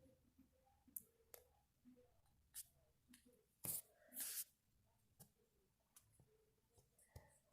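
Near silence with faint scattered clicks, and two brief hissing rustles just under four seconds in, the second a little longer.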